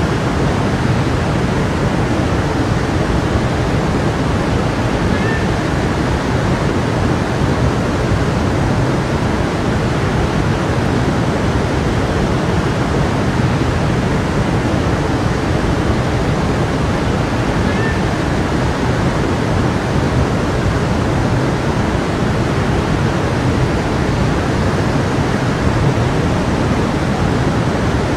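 Small stream flowing, a steady even rush of water.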